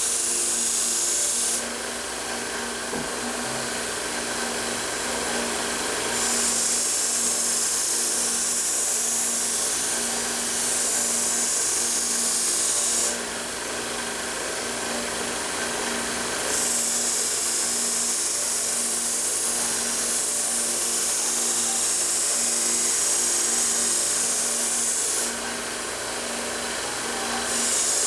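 Belt grinder running a low-grit sanding belt, grinding the bevel into a steel knife blade: a steady motor hum under a loud, hissing grind that drops back for a few seconds three times.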